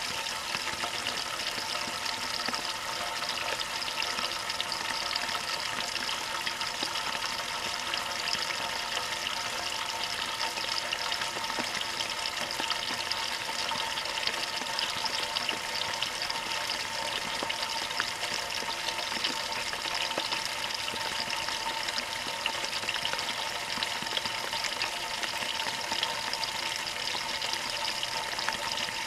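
Water pouring steadily into a Maytag washing machine's tub as it fills at the start of the wash cycle, heard from inside the tub.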